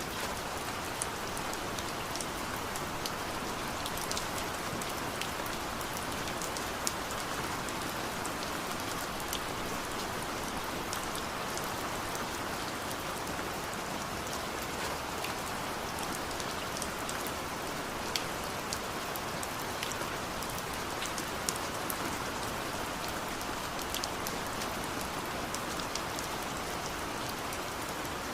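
Steady rain falling: an even hiss with many scattered, sharper ticks of drops striking surfaces.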